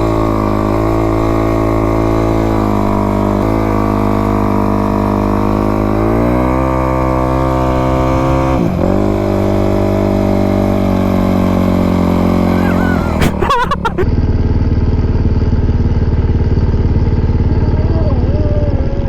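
Dirt bike engine running steadily, its pitch rising about six seconds in and dipping briefly a few seconds later as the throttle changes. An abrupt break comes near the end, followed by steady engine sound again.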